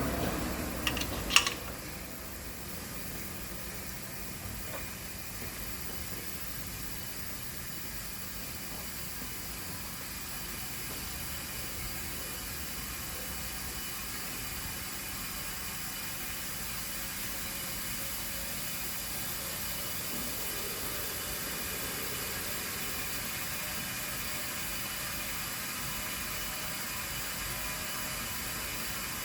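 Steady hiss of a pneumatic residual-oil extraction machine drawing leftover engine oil out of the engine's oil lines. A couple of sharp clicks come about a second in.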